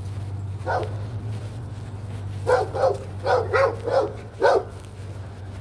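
A dog barking: one short bark, then a quick run of six short barks in about two seconds, over a steady low hum.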